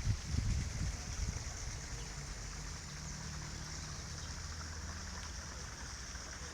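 Steady hiss of rain and running water, with low rumbling on the microphone in the first second and a half.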